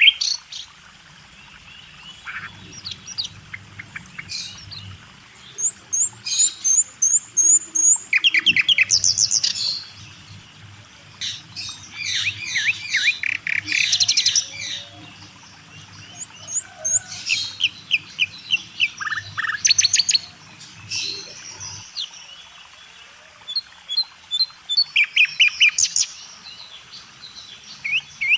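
Small birds chirping and singing, in short calls and quick runs of repeated high notes, over a faint low hum that stops near the end.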